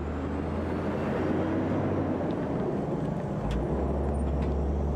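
Road train truck driving: a steady low diesel engine drone with tyre and road noise.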